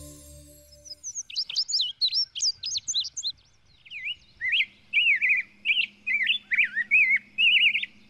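Small birds chirping: quick high chirps from about a second in, then a run of louder, slightly lower chirps from about four seconds in.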